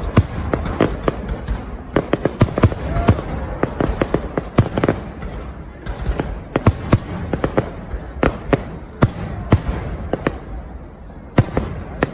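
Fireworks going off: a dense, irregular run of sharp bangs, often several a second, some louder than others.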